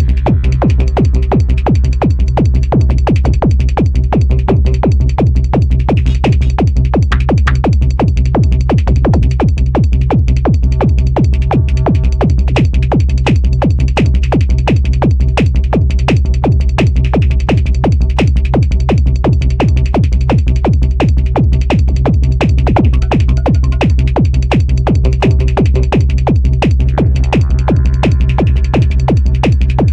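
Electronic dance music played live on a Korg Electribe 2 groovebox: a steady drum-machine beat over a heavy, constant bass, with synth tones on top.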